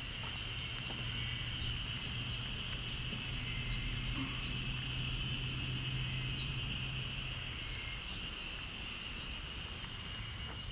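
Outdoor ambience: a steady high-pitched drone, with a low engine-like hum under it that fades out about eight seconds in.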